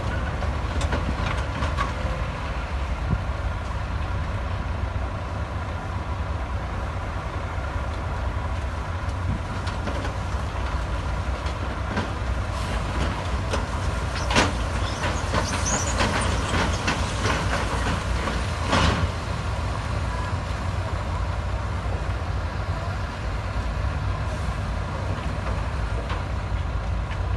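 Heavy diesel engine of earthmoving machinery running steadily with a deep, low rumble. Two sharp metallic clanks stand out, one about halfway through and one about two-thirds through, with a brief high squeak between them.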